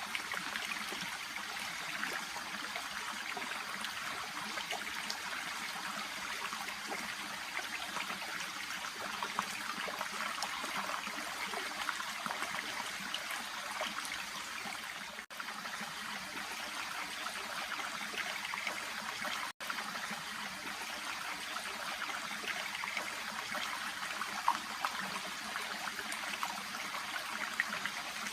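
A small shallow stream babbling and trickling steadily, with two momentary cut-outs in the middle.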